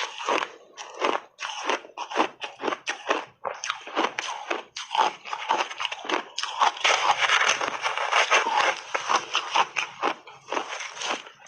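Close-miked crunching and chewing of frozen ice in big bites: an irregular run of sharp, brittle crunches that packs densest and loudest in the middle to later part.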